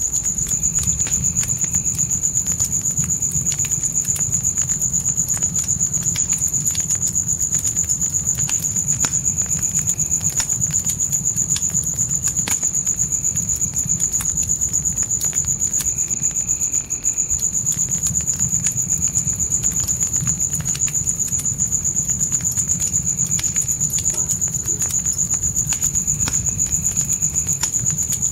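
Crickets chirping in one unbroken high-pitched trill, over a wood fire crackling with many small pops and a low, steady rumble.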